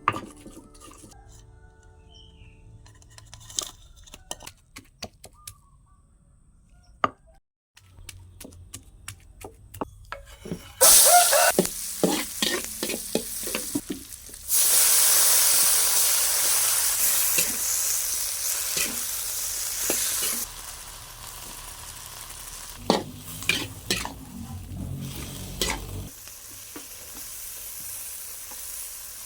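Knocks and clinks of cooking utensils, then about eleven seconds in food goes into hot oil with a sudden loud sizzle. The sizzle stays strong for several seconds, then settles lower while a spatula stirs and scrapes the pan.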